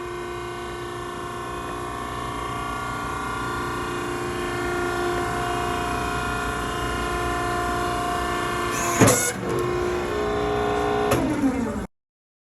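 Maren cardboard baler's hydraulic power unit running under load, a steady whine that builds slowly. About nine seconds in a sharp clunk comes and the whine changes pitch, a second clunk follows near the end, then the sound cuts off abruptly.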